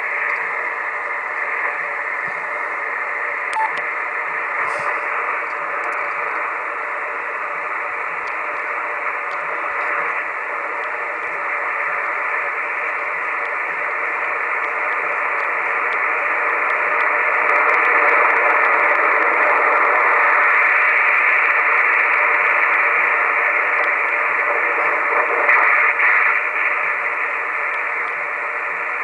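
Amateur radio receiver's speaker giving a steady hiss of static, swelling somewhat louder past the middle.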